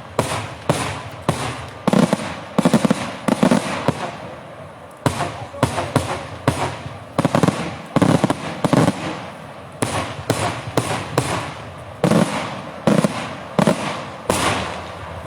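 Daytime fireworks display: a rapid, irregular string of loud firework bangs, several a second at times, each trailing off in echo, thinning out just before the end.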